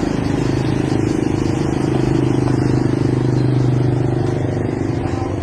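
An engine running steadily with a low, even hum, growing slightly louder in the middle and easing off near the end.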